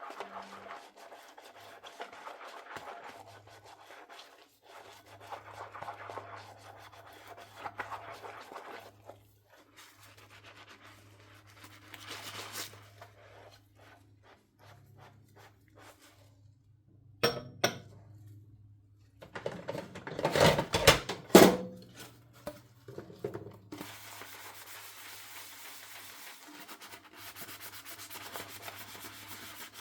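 Hand-washing dishes at a sink: a sponge scrubbing dishes with soft rubbing strokes, then clinks and clattering knocks of dishes being handled, loudest about two-thirds of the way through, and a steady hiss near the end.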